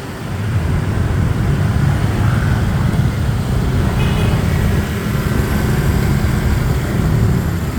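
City road traffic with motorbikes and cars running close by, a steady low rumble heard while riding along the street. A brief faint high tone sounds about four seconds in.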